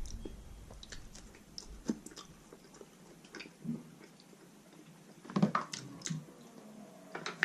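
A person chewing roast chicken close to the microphone: soft wet mouth clicks and smacks, with a louder run of chewing about five seconds in.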